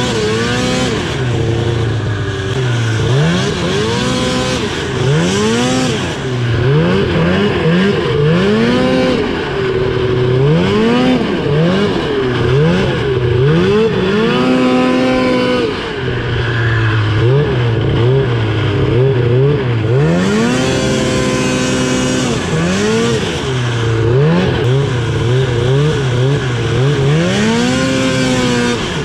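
Ski-Doo Summit 700 snowmobile's two-stroke engine revving up and down again and again as the throttle is worked, its pitch climbing and falling every second or two.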